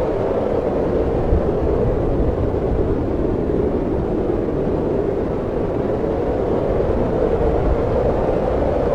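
Snowstorm wind blowing steadily, a continuous low rumbling rush with no breaks.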